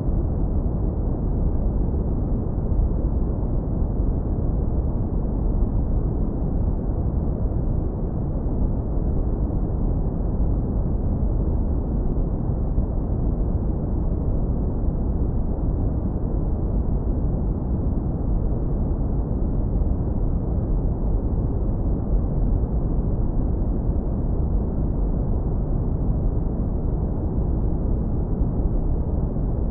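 Synthetic brown noise, low-pass filtered hard so that it is a deep, warm rumble with no hiss. It runs at an even level with no changes.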